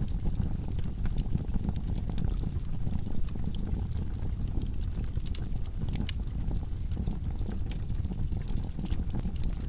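Wood logs burning in a fireplace: a steady low rumble of the fire with irregular sharp crackles and pops scattered throughout.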